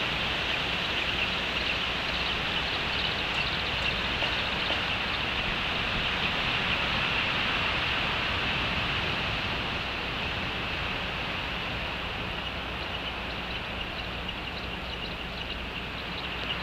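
Steady rain falling, a constant hiss.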